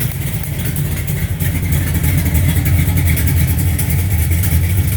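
1969 Dodge Charger's heavily cammed 440 big-block V8 running at idle, the exhaust getting slightly louder about two seconds in. It has a small exhaust leak and is due a tune-up.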